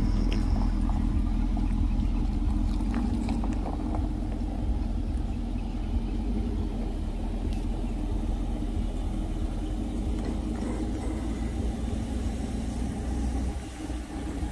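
Car engine running at idle with a steady low rumble.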